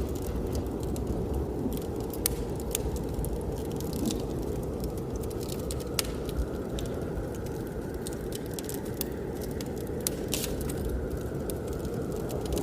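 Wood fire crackling with irregular sharp pops and snaps, over a steady low rush of blizzard wind.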